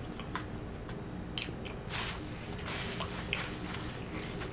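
A person chewing a mouthful of food, with short wet smacking mouth sounds coming irregularly and most often in the middle of the stretch.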